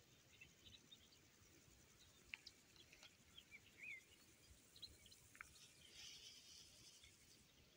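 Near silence of a forest: faint, scattered short bird chirps over a soft background hiss, with a brief high rustling hiss about six seconds in.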